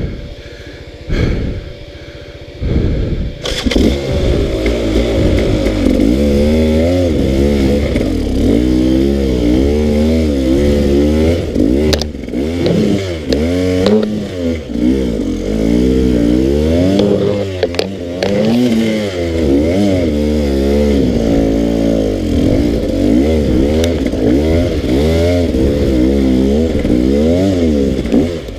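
Dirt bike engine, quieter for the first few seconds, then revving hard and constantly rising and falling in pitch as the throttle is worked on a steep trail climb. A few sharp knocks are heard partway through.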